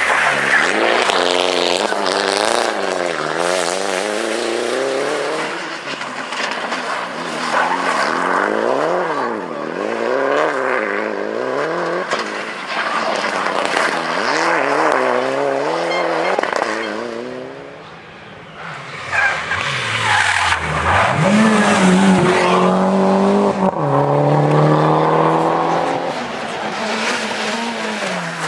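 Rally car engines at full throttle, revving up and dropping back again and again through quick gear changes, with tyre and gravel noise underneath. About two-thirds through, the sound drops briefly before a high, held engine note.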